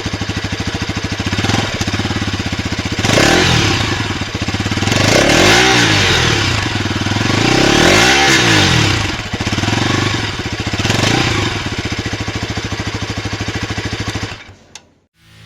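Bajaj Pulsar NS 200 BS6's fuel-injected single-cylinder engine idling with its catalytic-converter exhaust, blipped up and back down about four times, then switched off about a second before the end.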